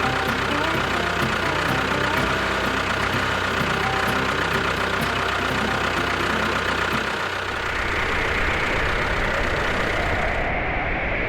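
An engine running steadily at idle. About seven seconds in its low note drops away, leaving a steady rushing hiss.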